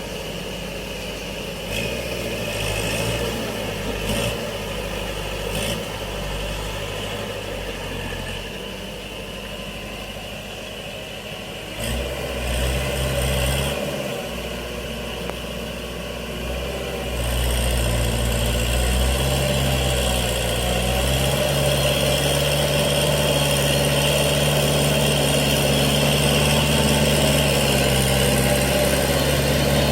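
Kubota L5018 tractor's diesel engine running steadily. The engine note shifts about twelve seconds in and grows louder from about seventeen seconds in.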